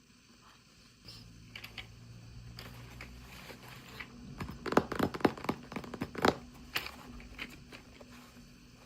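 Hands handling toy packaging: a run of sharp clicks and taps, densest and loudest in the middle, with light crinkling and scraping.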